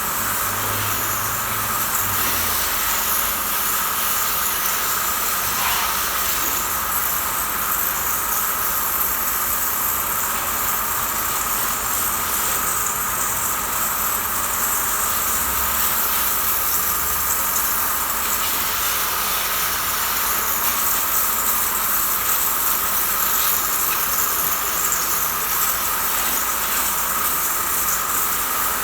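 High-pressure washer spraying water onto a motorcycle: a steady, loud hiss with a constant high whine underneath.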